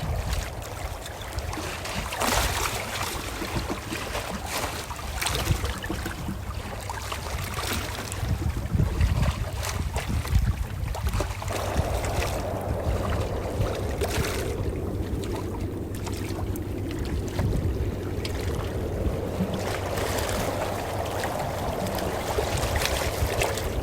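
Calm ocean waves washing ashore: a continuous hiss of surf that swells and falls back every few seconds, over a steady low rumble.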